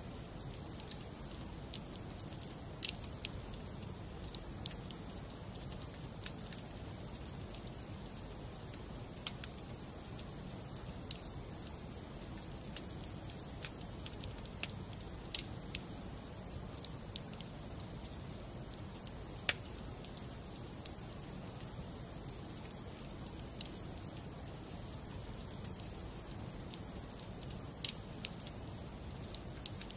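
Wood fire burning in a fireplace, crackling: irregular sharp pops and snaps, a few louder than the rest, over a steady low rush of the flames.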